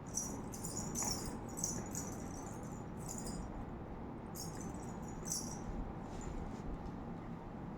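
Small jingling rattle shaken in short, uneven bursts, with a brief pause midway.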